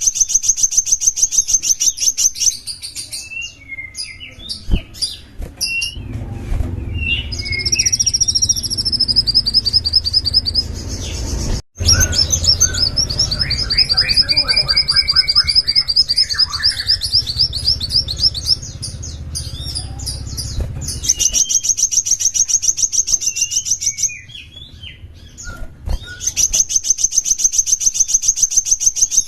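Small songbird singing: long, fast, high-pitched trills of rapidly repeated notes, alternating with looser chirps and a few short whistled phrases. A low hum lies under the middle part, and the sound drops out abruptly for an instant about twelve seconds in.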